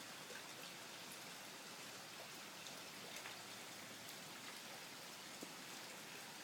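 Faint, steady thunderstorm rain falling, an even wash of noise with scattered drop ticks. The downpour is starting to ease but is still heavy.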